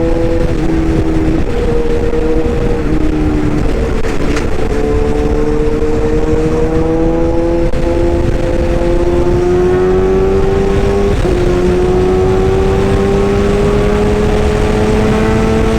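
Excavator running steadily, a low rumble with a whine on top that shifts in steps and slowly rises in pitch.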